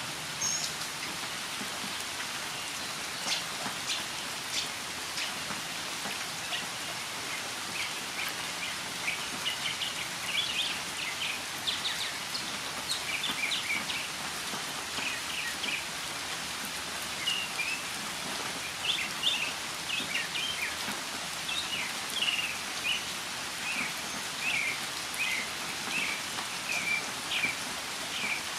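Northern mockingbird singing short chirped phrases over steady rain. The song starts about a third of the way in and becomes a regular run of repeated notes in the second half.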